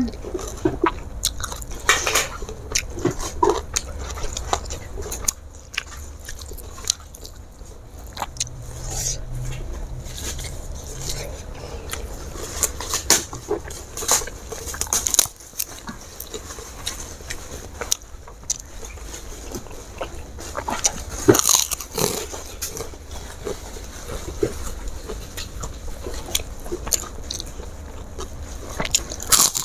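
Close-miked eating by hand: wet chewing and lip smacks with many short sharp clicks, and crisp crunches of fried crackers among them.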